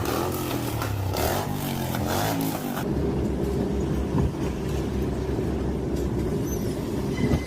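Car engine and road noise, changing abruptly about three seconds in to a steady low rumble, with a short knock about four seconds in.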